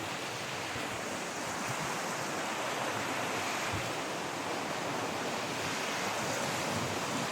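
River water rushing over rocks, a steady, even rush.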